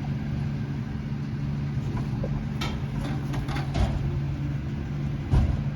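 Dennis Elite 6 refuse truck's diesel engine idling steadily, with scattered knocks and clatter and a heavier thump near the end.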